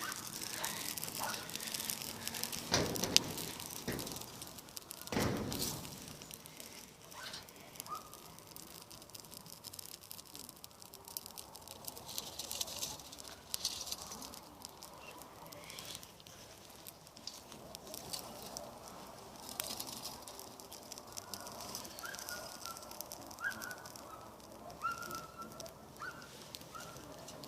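Campfire burning, with irregular crackles and pops.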